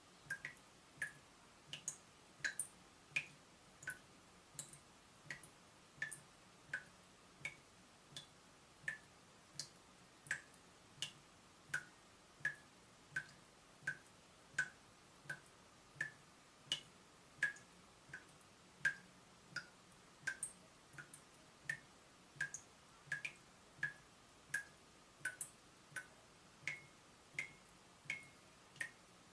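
Water dripping steadily from a leaking tap, about one and a half drops a second, each drop a short, high plink.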